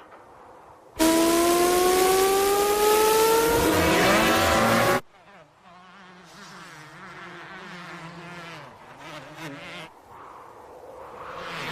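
Cartoon sound effects of insects. About a second in, a loud engine-like whine starts and rises steadily in pitch, then cuts off abruptly some four seconds later. A quieter, wavering buzz follows.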